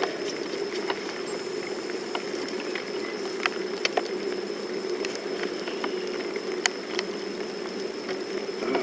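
Light rain pattering, with scattered sharp ticks of single drops at irregular times over a steady low hum.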